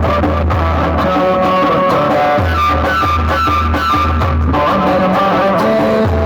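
Loud music played through a sound-service PA system: a plucked, guitar-like melody over a heavy, deep bass line, with the bass dropping out briefly about two seconds in and again near the end.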